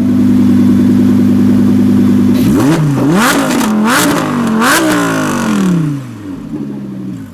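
Supercar engine held at steady high revs, then revved up and down several times with sharp pops and crackles from the exhaust. The revs then fall away to a quieter, lower note.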